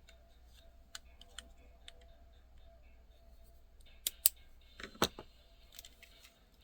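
Light clicks and taps of a die-cast model car being handled, with a few sharper clicks about four and five seconds in, over a faint steady hum.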